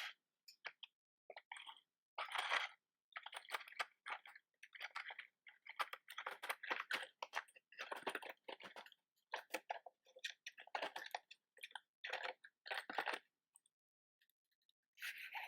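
Close-miked scratching and crinkling from handling a box of matches: a string of short, irregular rustly bursts with brief pauses, and a longer gap near the end.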